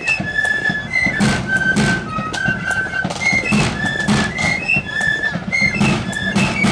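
Marching flute band playing a tune: flutes carry a high melody, note after note, over the band's snare drums and a regular bass drum beat.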